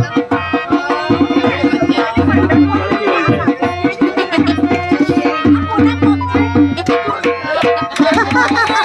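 Gujarati folk music: a sarnai (double-reed pipe) plays a wavering, ornamented melody over fast dhol drumming.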